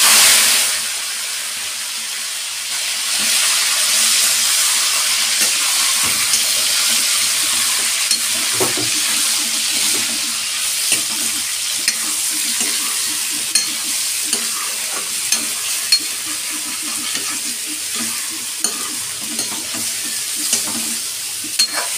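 Raw chicken pieces dropping into hot oil in a metal kadhai, with a loud burst of sizzling at the start. The frying then settles into a steady sizzle while a metal ladle stirs the pieces, with frequent short clinks and scrapes of the ladle against the pan.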